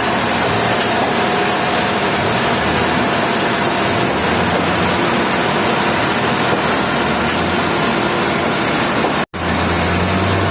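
Sawmill machinery running steadily with a loud, dense noise and a low engine hum underneath, cut off for a split second about nine seconds in.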